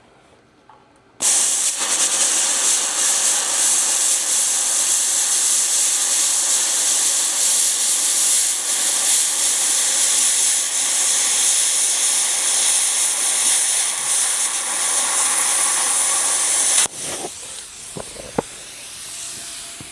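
Arccaptain Cut 55MP plasma cutter cutting through metal at 50 amps: a loud, steady hiss of the air-plasma arc that starts about a second in and cuts off sharply near the end, leaving a quieter hiss.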